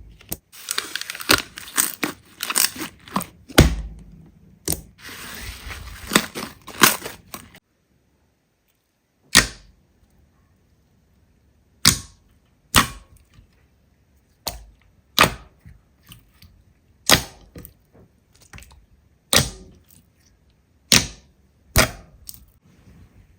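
Slime being squeezed and pressed by hand, crackling and popping. Dense crackling runs for the first seven seconds or so, then after a short gap come single sharp pops about once a second.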